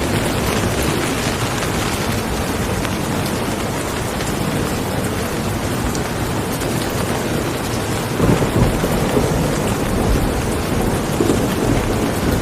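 Steady rain falling, with a low rumble of thunder swelling up about two-thirds of the way through.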